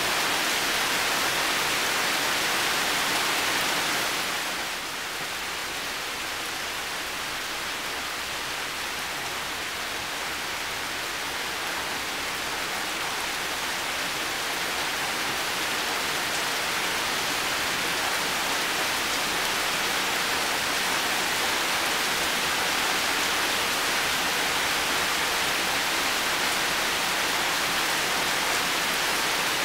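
Heavy rain falling in a steady, even hiss. It drops a little in loudness about four seconds in, then gradually builds back up.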